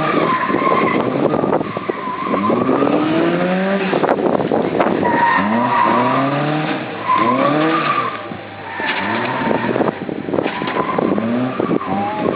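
Westfield kit car's Ford 1.6 16-valve engine revving hard, its pitch climbing and dropping back again and again, while the rear tyres squeal in several drawn-out bursts as the car drifts.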